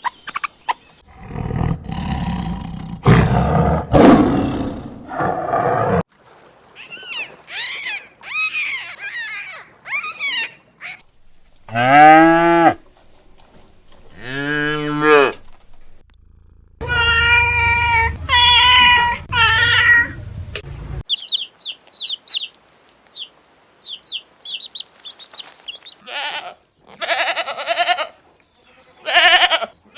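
A succession of different animal calls one after another: a low rough call in the first few seconds, two loud pitched calls that fall in pitch about halfway through, and a run of short high chirps later on.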